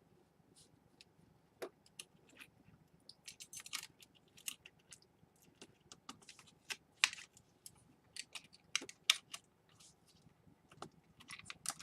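Irregular light clicks and taps of laptop parts being handled and fitted during reassembly, sounding much like typing on a keyboard.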